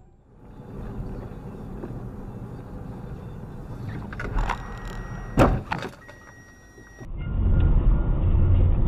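Road and engine noise inside a car, broken about five seconds in by a sudden loud bang with a few sharp knocks around it: a car collision. Near the end comes a louder, steady low rumble of a vehicle on the road.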